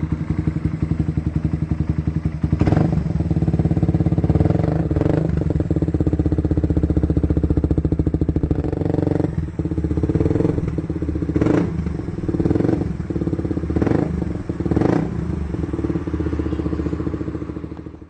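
Suzuki Satria FU's single-cylinder four-stroke engine running through a CLD Racing aftermarket racing exhaust, idling with several short throttle blips that rev it up and drop back.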